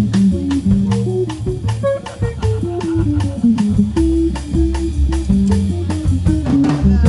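Jazz combo playing an instrumental passage: an electric guitar picks a single-note melody line over walking double bass and a drum kit keeping time.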